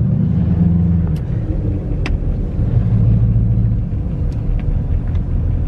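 Chevy Silverado's Duramax diesel engine running on the move, a steady low rumble heard from inside the cab, with a few faint clicks.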